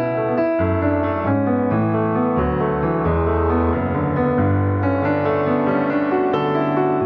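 Piano music: a steady flow of notes over held bass notes.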